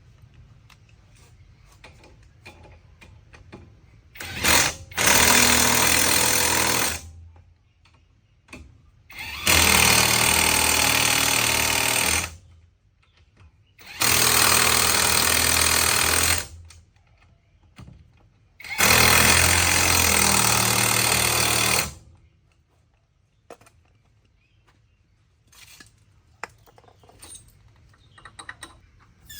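A power tool run in four bursts of about three seconds each, with short pauses between them. Faint clicks and small knocks of work come before and after.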